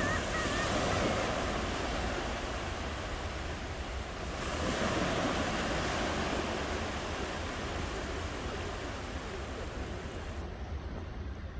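Ocean waves washing onto the shore, surging just after the start and again around four to five seconds in, then easing off.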